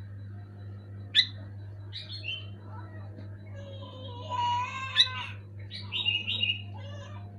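Sooty-headed bulbul (kutilang) giving short, sharp chirping calls several times. A longer, lower wavering sound comes about four seconds in, and a steady low hum runs underneath.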